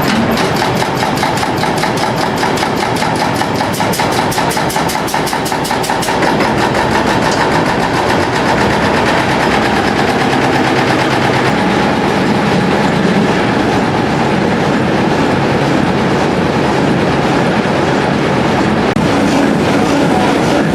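British Polar M45M marine diesel engine running just after start-up. It is loud, with a distinct even firing beat in the first several seconds that settles into a steady run.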